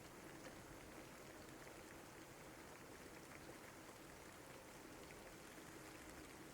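Steady, faint rain, with the patter of many small drops.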